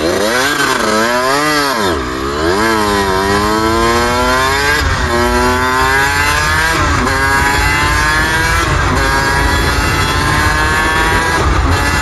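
Suzuki RM125 two-stroke dirt bike engine, revved up and down twice, then accelerating hard with its pitch climbing through several upshifts, each marked by a brief drop. The engine is being run hard to clear out the carburetor.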